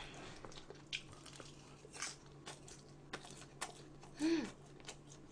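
Close, quiet eating sounds: soft chewing with scattered small clicks and smacks, and a short voiced hum about four seconds in.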